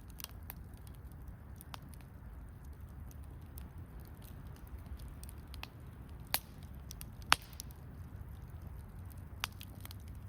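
Wood fire crackling: a few scattered sharp pops, the loudest two about six and seven seconds in, over a low steady rumble.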